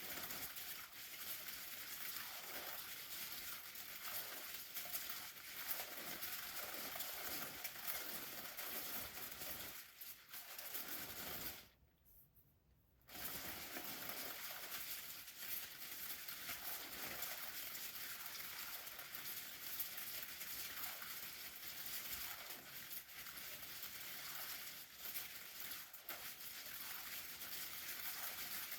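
Umbrella canopy fabric rustling and crinkling in a continuous hissy stream, stopping for about a second and a half near the middle before carrying on.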